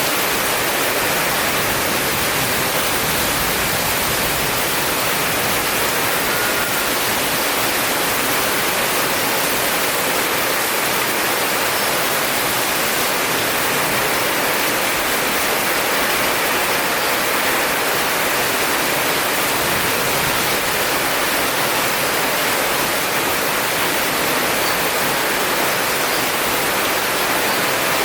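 Heavy rain falling steadily: a dense, even hiss that holds the same level throughout, with no thunder.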